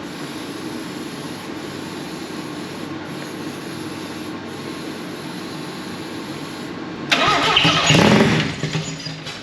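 A freshly installed Mazda 13B rotary engine, with its fuel pump disconnected and primed with 'secret sauce' in the carby, fires up straight away on its first start about seven seconds in, runs loudly for about a second and a half, then dies away. A steady hum comes before it.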